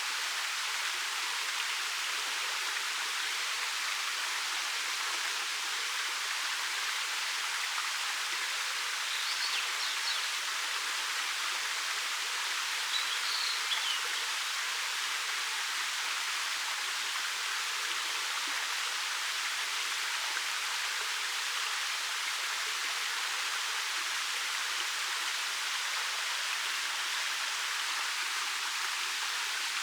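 Steady rushing of a 13 m waterfall pouring over dark rock, an even hiss of falling water that does not change in level. Two faint, brief high chirps break through about a third of the way in and again a few seconds later.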